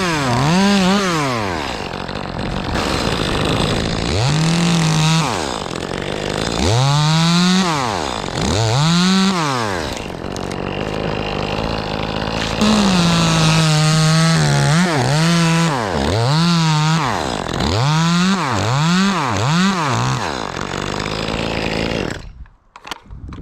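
Echo 2511 top-handle two-stroke chainsaw cutting pine: the engine revs up and falls back again and again, held at full speed through a few short stretches of cutting, then stops near the end.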